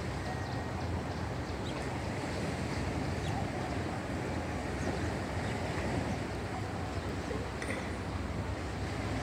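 Boat engine running steadily, with wind noise on the microphone.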